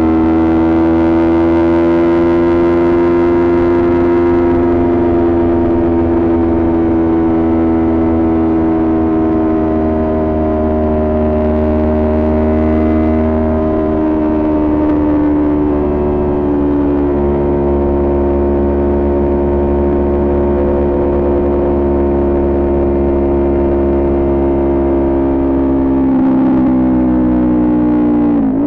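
Kawasaki Ninja 400's parallel-twin engine with a Coffman exhaust droning at a steady cruising speed, its pitch drifting slowly up and down. Near the end the revs dip sharply and come straight back up.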